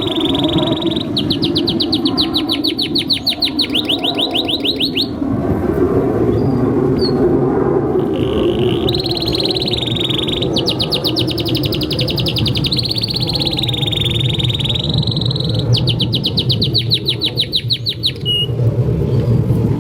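Domestic canary singing a long, continuous song: fast trills of rapidly repeated high notes alternating with held rolling notes, with a short pause partway through. A steady low background noise runs beneath it.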